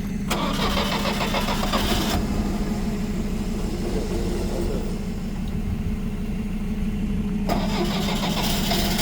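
UAZ petrol engine running at idle on its own after water got into the fuel. A loud hissing noise rises over it twice, once about a second in for about two seconds and again near the end.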